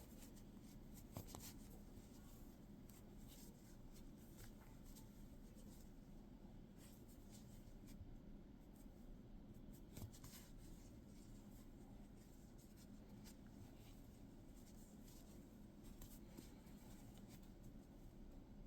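Faint rustling and light ticks of a crochet hook pulling yarn through loops while a bobble stitch is worked, over a low steady hum.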